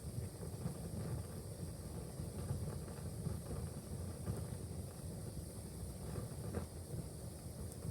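Wood fire burning in a fireplace: a steady low rumble from the flames with a few faint crackles and pops, and a sharper pop at the very end.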